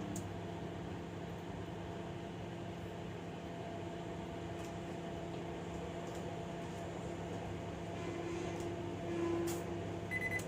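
Microwave oven running through a reheat cycle: a steady electrical hum with fan noise. Near the end a high beep sounds and the hum cuts off as the cycle finishes.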